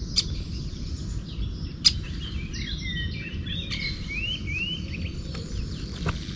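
Birds singing outdoors: short chirps and quick rising whistled notes, two clear upslurs a little past four seconds in, over a steady low rumble. A single sharp click about two seconds in.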